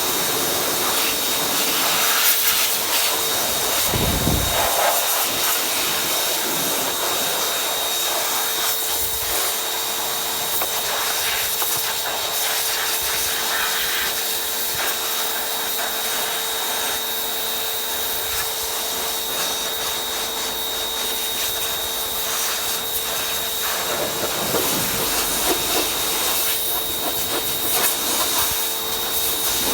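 Pressure washer spraying: a steady hiss of water over a constant motor and pump whine, with brief changes as the spray moves or shifts.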